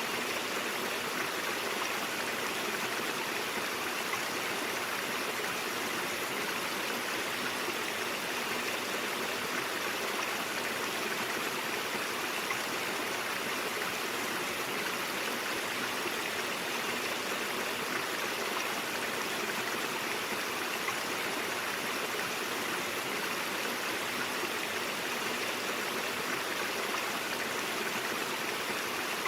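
A mountain stream flowing over rocks: a steady, even rush of running water.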